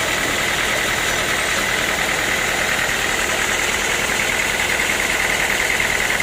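Sawmill machinery running steadily, a constant high whine over a dense, even mechanical noise.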